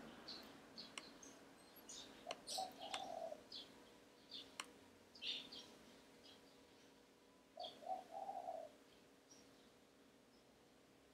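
Faint birds in the background: scattered short high chirps, and twice a low cooing call of three short notes, about two and a half and eight seconds in. A couple of sharp clicks sound between them.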